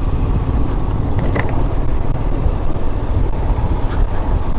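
Motorcycle on the move: a steady low rumble of wind buffeting the microphone over the running engine.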